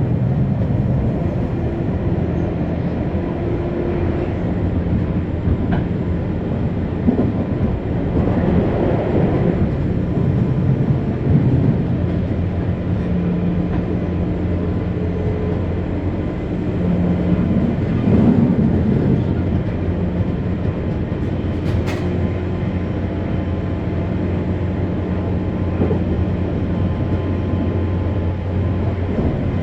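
Running sound inside a JR 201 series electric commuter car between stations: a steady rumble of wheels on rail with a constant motor hum. One sharp click sounds about two-thirds of the way through.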